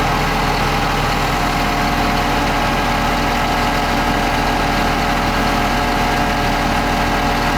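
An engine idling steadily, a constant low hum with a few steady tones over it and no change in loudness.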